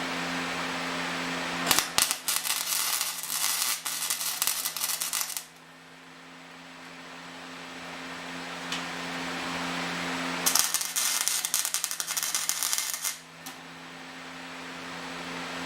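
Lincoln stick welder in use: the welder hums steadily, and the arc crackles and sizzles in two bursts of about three seconds each as short welds are laid on the sheet-steel tank.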